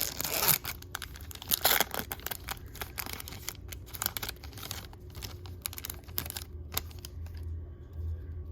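Crinkling and tearing of a baseball card pack's wrapper, loudest in the first two seconds, then scattered light rustles and clicks as the cards are handled.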